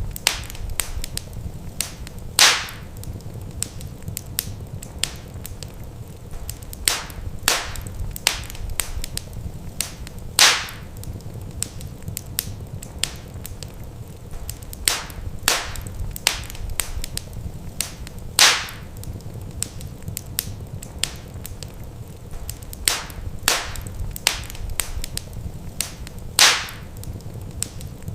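Wood fire burning in a fireplace: a steady low rumble and hiss with frequent sharp crackles and pops of the burning logs, a few louder snaps every several seconds.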